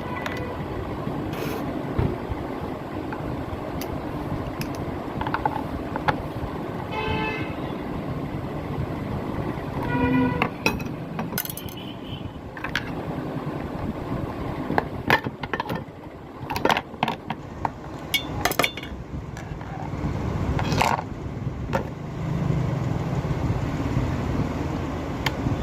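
Scattered clicks, knocks and scrapes of hand tools and plastic parts being handled while a steam iron is worked on, over a steady background of street traffic. A short pitched tone sounds about seven seconds in.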